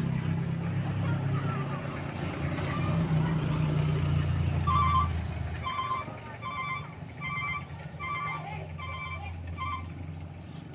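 A steady low engine hum that fades away about six seconds in, with a run of about seven short electronic beeps, roughly one every three-quarters of a second, in the second half.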